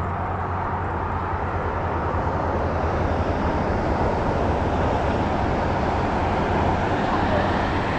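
A steady, low engine drone over a broad outdoor noise, growing slowly louder.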